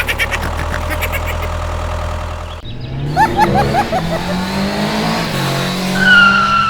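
Engine-like running with a fast ticking, changing about two and a half seconds in to a rising rev, with a run of quick upward chirps and a held high tone near the end.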